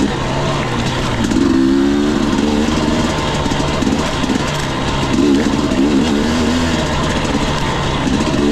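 Single-cylinder two-stroke dirt bike engine of a Husqvarna TE 250i, riding and revving up and down, with pitch swings about a second and a half in and again around the middle.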